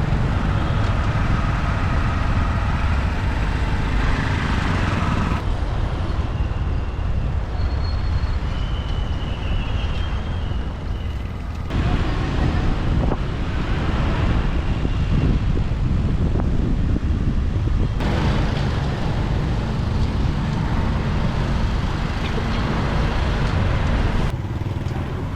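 Street traffic heard from a moving motorbike: a steady rumble of engines and road noise, with a few faint brief high tones. The sound changes abruptly a few times.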